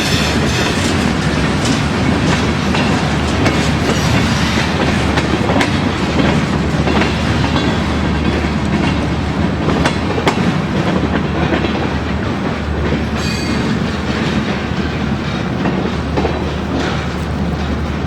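Train rolling past, with a steady rumble and wheels clicking and clacking over the track.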